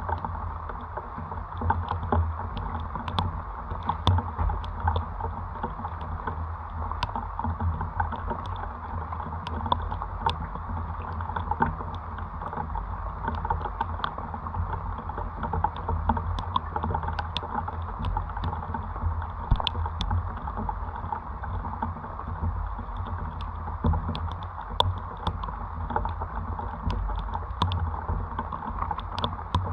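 Steady rain with wind buffeting the microphone as a low rumble, and scattered light ticks throughout.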